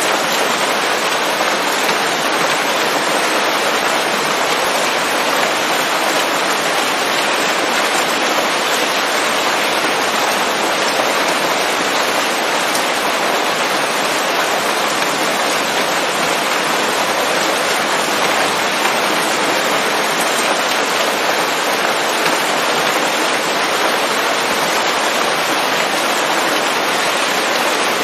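Steady rain falling on foliage, an even, unbroken hiss of drops on leaves with no thunder.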